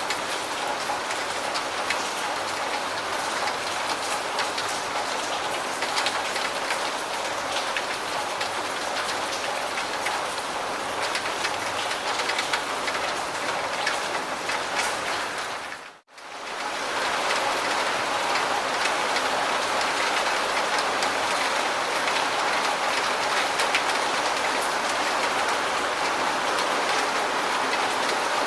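Steady rain falling on a surface, an even hiss with many small drop ticks. About sixteen seconds in it briefly fades out to near silence and fades back in.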